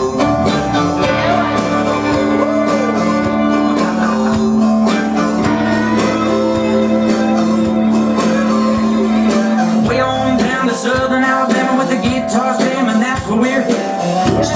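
Live band playing music with guitar, with a long held low note that changes about ten seconds in.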